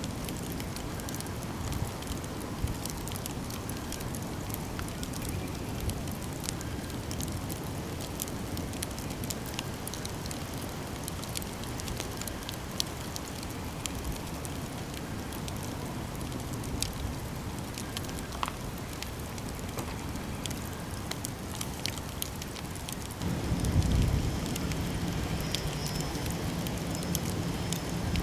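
Campfire burning, with a steady hiss and many small sharp crackles and pops from the burning wood. Near the end a louder low rumble comes in under the crackling.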